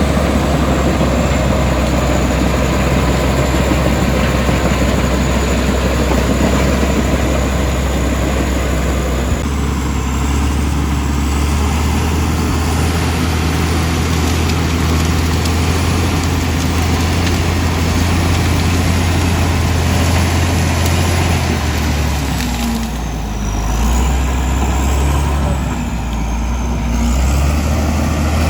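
Komatsu D65E bulldozer's diesel engine working, a loud steady low drone with a thin high whine above it. The engine note shifts about a third of the way in and dips briefly twice near the end as the load changes.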